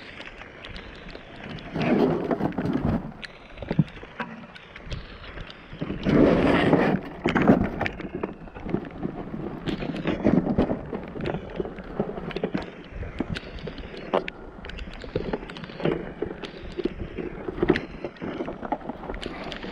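Muffled knocking and rustling of scrap being moved around in a dumpster, with rain, through a waterlogged GoPro. There are heavy bursts of handling noise at about two seconds, six to seven seconds and ten seconds, and scattered sharp knocks in between.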